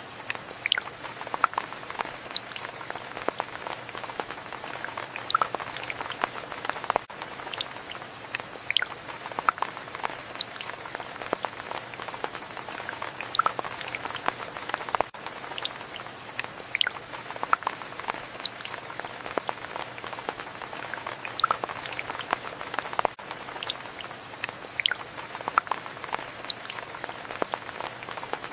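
Rain falling: a steady hiss with many irregular, close drips and plinks. The recording loops, repeating about every eight seconds.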